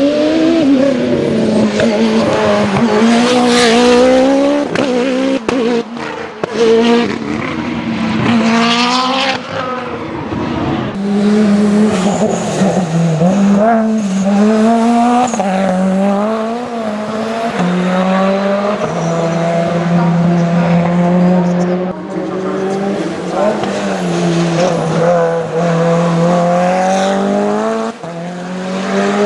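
Racing car engine revving hard, its pitch climbing and dropping again and again as it shifts up and down through the gears on a hill-climb course.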